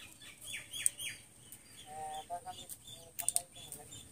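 Small bird chirping repeatedly, with quick falling chirps clustered in the first second or so, and a few sharp clicks about three seconds in.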